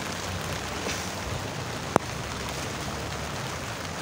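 Steady rain falling and pattering on surfaces, with one sharp click about two seconds in.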